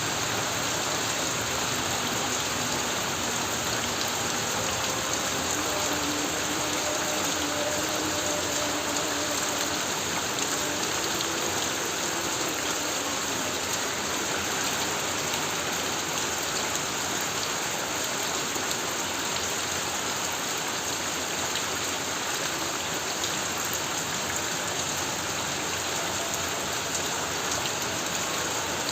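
Heavy rain falling steadily on a corrugated metal roof, an even unbroken hiss without thunder claps.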